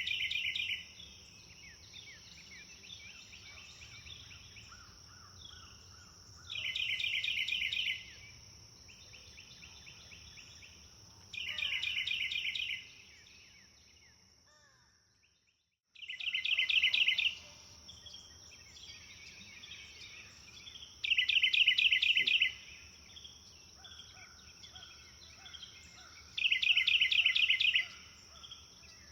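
A songbird repeatedly singing a short, rapid, loud trill of about a second and a half, coming back roughly every five seconds, over a steady high insect-like whine and fainter chirps from other birds. Just past halfway the whole soundscape drops almost to silence for about a second, then resumes.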